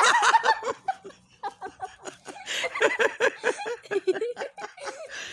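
Laughter: a long run of short, high laughs, loud at first and trailing off quieter near the end.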